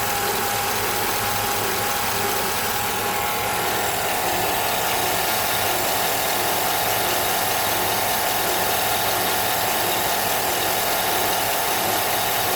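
2007 Chevy Avalanche's 5.3-litre Vortec V8 idling warm, with a steady low-pitched squeaking, almost a buzzing, running over the engine sound. The owner doesn't think it is a pulley and fears the camshaft, though it could be something electrical.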